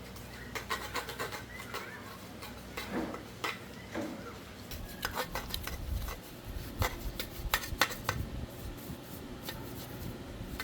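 Hand repair work on metal machine parts: irregular clinks, taps and short scraping strokes of tools and parts, over a steady low hum.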